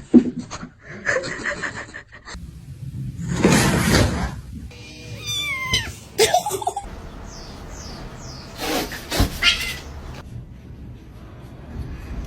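Domestic cats meowing several times, with pitch that slides up and down, across a run of short separate clips.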